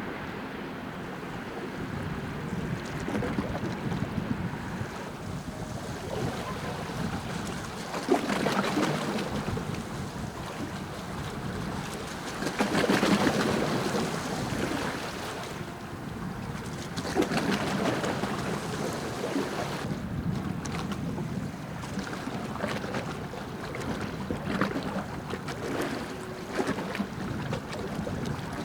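Wind buffeting the microphone in several gusts, over the low, steady running sound of a passing steam-powered lake freighter and the rush of water.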